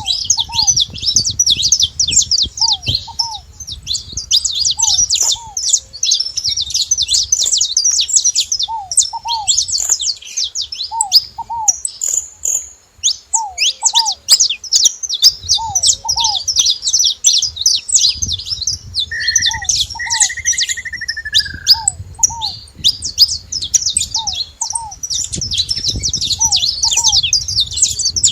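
Saffron finches chirping and twittering nonstop, many fast high calls overlapping. A lower pair of short downslurred notes repeats every second or two, and a single falling whistle comes about twenty seconds in.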